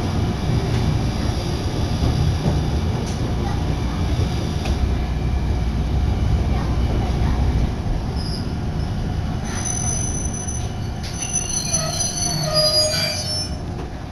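A Nagano Electric Railway train heard from inside the passenger car: a steady low rumble of the train running, easing off after about eight seconds as it slows. High squealing from the wheels and brakes comes in over the last few seconds.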